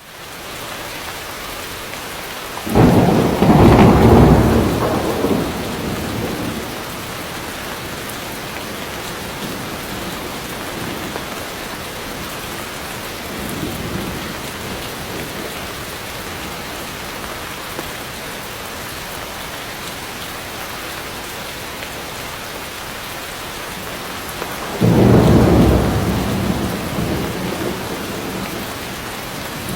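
Heavy rain falling steadily, with thunder: a loud clap about three seconds in that rumbles away over a few seconds, a faint rumble around the middle, and another loud clap near the end.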